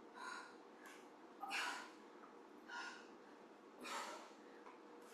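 A woman breathing hard from exertion during a weighted press-and-squat exercise: short, sharp breaths about once a second, timed to the movement.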